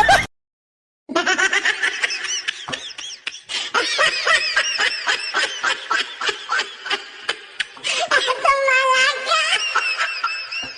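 High-pitched laughter: fast, broken peals with rising and falling pitch, one longer held note about eight seconds in. It starts after a brief silence at a cut.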